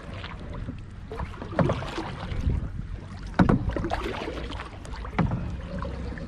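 Kayak paddle strokes splashing in the water, one about every two seconds, over a steady low rumble of wind on the microphone.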